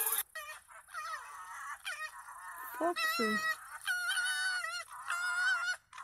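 Two red foxes crying at each other in high, wavering, nasal calls, several in a row, with one lower cry falling in pitch about three seconds in.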